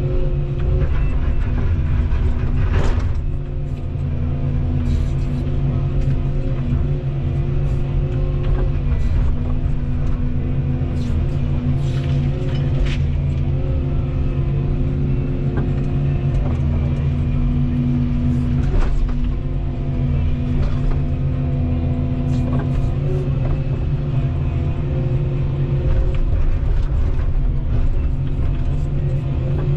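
Volvo 235EL excavator's diesel engine running steadily under working load, its pitch shifting slightly now and then, with a few sharp knocks and clanks from the machine at work.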